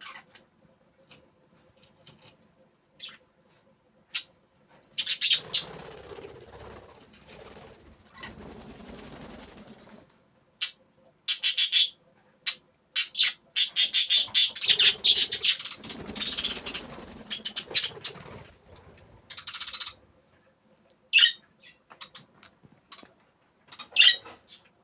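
Budgerigars chirping in short, sharp bursts, with two longer stretches of fluttering and scuffling.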